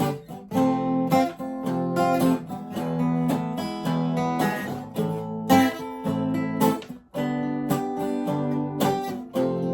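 Acoustic guitar strumming a repeating chord riff, the chords changing every second or so, with a brief pause about seven seconds in.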